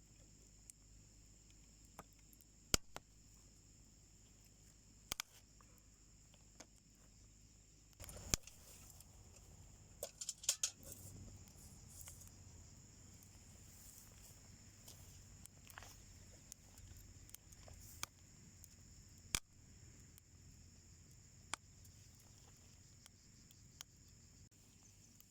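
Wood fire burning in a homemade wood stove: faint, sparse crackles and sharp pops from the burning wood, with a quick cluster of snaps about ten seconds in.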